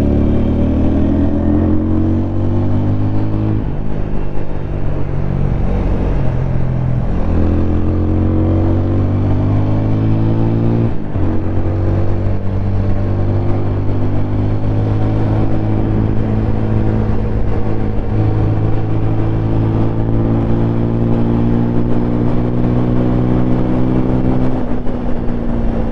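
Single-cylinder 200 cc motorcycle engine under way, heard from the rider's seat. It pulls steadily, and its note changes abruptly every few seconds as the rider shifts gear and rolls on and off the throttle through the corners.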